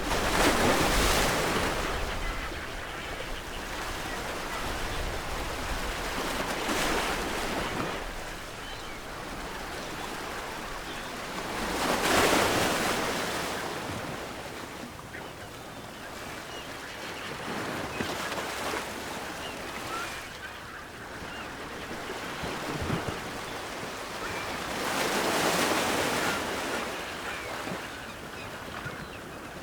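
Ocean waves breaking on a shore: a steady wash of surf that swells into a crash about every six seconds, five times in all.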